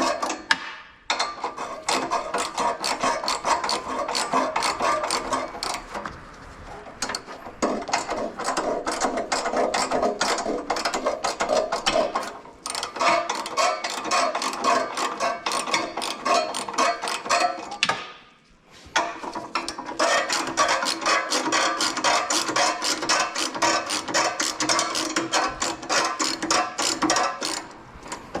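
Socket ratchet wrench clicking in long rapid runs, with short pauses between runs.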